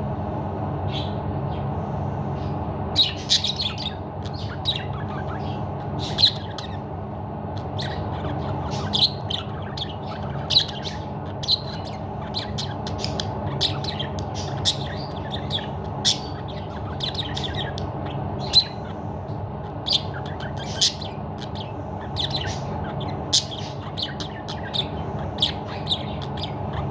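Green budgerigar chirping and squawking in short, sharp, irregular calls, about one or two a second, over a steady low background hum.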